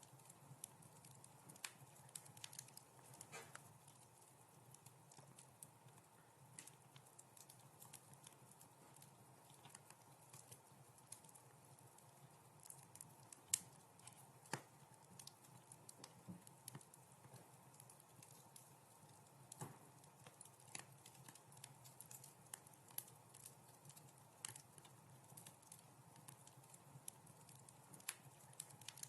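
Wood fire crackling in a fireplace: quiet, irregular sharp pops and snaps over a faint steady low background, with one louder pop about halfway through.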